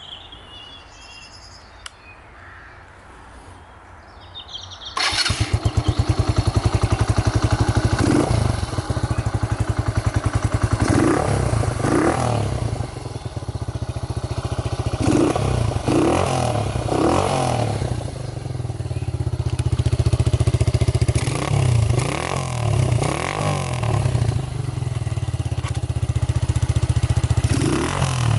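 Suzuki GS125's single-cylinder four-stroke engine, fitted with a Scorpion aftermarket exhaust, starting about five seconds in and then idling, with repeated short blips of the throttle that rise and fall in pitch.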